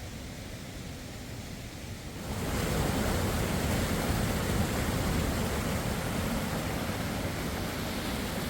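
Steady rush of falling water from a waterfall or cascading stream, jumping noticeably louder about two seconds in.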